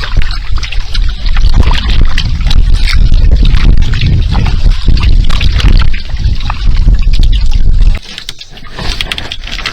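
Kayak paddle strokes dipping into the water and dripping, under a heavy wind rumble on the microphone that cuts off suddenly about eight seconds in.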